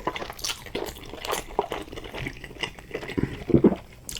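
Close-up wet eating sounds of a mouthful of saucy, cheesy chicken pasta: irregular soft lip smacks, squelches and chewing clicks, with a few louder smacks near the end.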